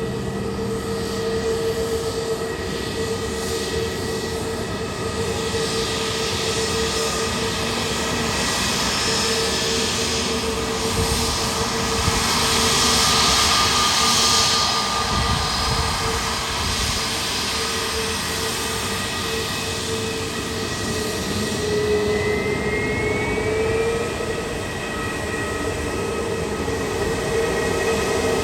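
Jet airliner's turbofan engines running with a steady whine over a rushing hiss, the hiss swelling about halfway through and the whine rising in pitch a little later.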